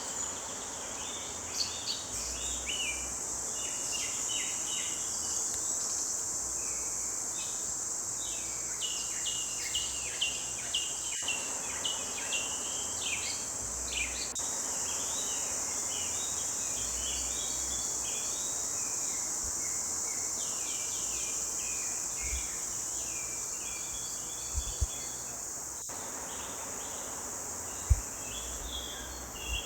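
Several songbirds singing in quick, chirping phrases over a steady high insect drone, with two low thumps near the end.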